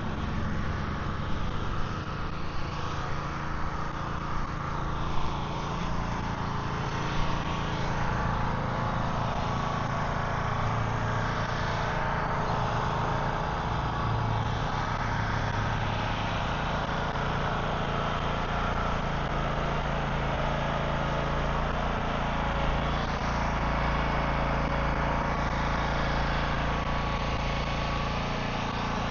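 A vehicle engine running steadily with a low, even hum, with a few brief knocks in the first several seconds.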